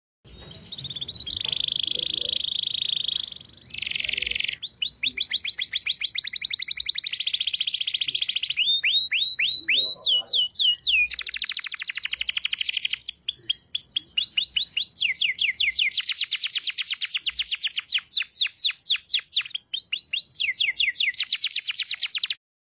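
A songbird singing long runs of fast repeated sweeping whistled notes, broken into several trills with short pauses. It opens with a buzzier phrase in the first few seconds and stops abruptly near the end.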